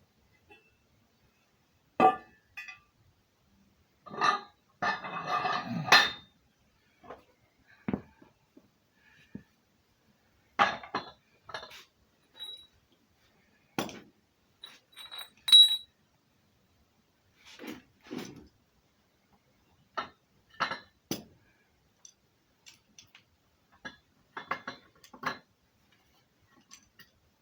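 Irregular metal clinks and knocks with pauses between them, including a short burst of clattering about four seconds in and one sharper clink that rings briefly about halfway through.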